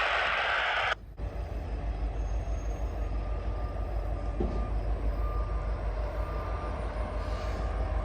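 A loud hiss cuts off suddenly about a second in. It gives way to the steady low rumble of a train, with a faint high beep repeating every half second or so.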